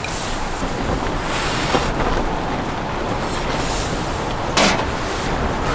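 Strong wind rushing and buffeting, with one short clack about four and a half seconds in.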